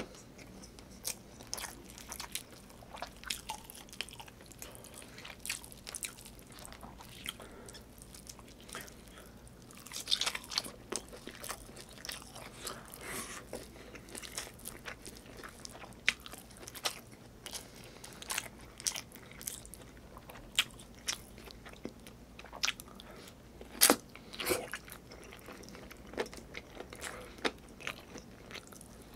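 Close-miked eating sounds of a man chewing and biting chicken adobo and rice eaten by hand, with many irregular sharp mouth clicks. The loudest click comes about 24 seconds in.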